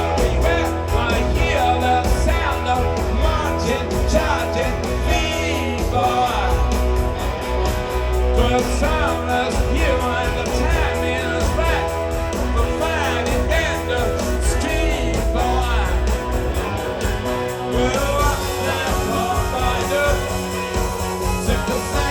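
Rock band playing live: guitars, bass and drums with a voice singing. The heavy low bass and drums thin out near the end.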